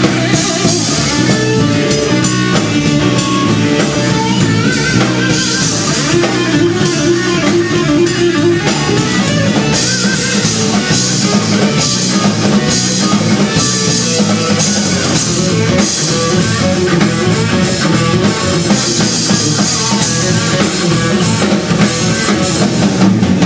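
Instrumental break of a rock song: guitar playing over a drum kit, with no vocals.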